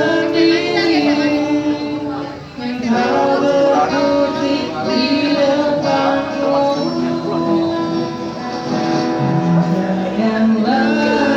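A slow Indonesian pop song sung over guitar accompaniment, with long held, sliding vocal notes.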